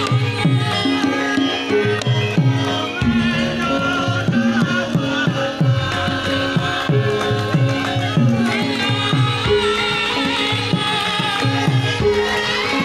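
Javanese gamelan music accompanying a lengger mask dance. Hand-played drum strokes that drop in pitch come several times a second in a steady, driving rhythm, with pitched gamelan instruments and a wavering melodic line over them.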